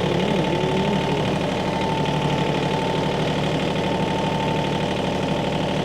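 Tractor engine running steadily at idle, with a steady high whine held over it.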